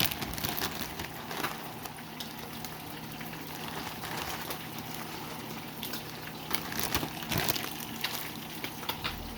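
Pot of sinigang fish broth bubbling at a boil, a steady watery hiss with scattered light clicks and taps.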